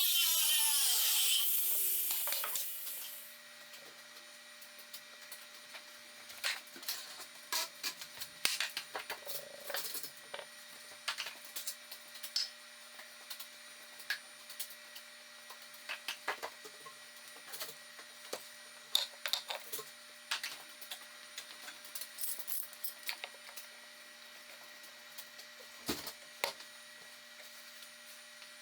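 A woodworking power tool spinning down over the first three seconds, its pitch falling as it coasts to a stop. After that come scattered light taps and clicks of pieces being handled, over a faint steady hum.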